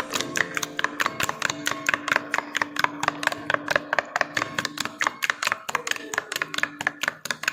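A ladle beating cake batter in a mixing bowl by hand, clicking against the bowl about seven times a second in a quick, even rhythm. Background acoustic guitar music plays underneath.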